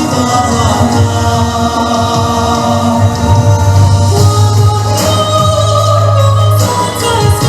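A choir singing over instrumental accompaniment.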